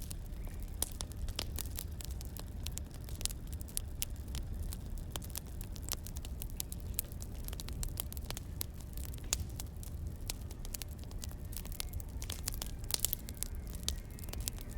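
Wood fire crackling: irregular sharp pops and snaps over a steady low rumble, with a denser cluster of pops about thirteen seconds in.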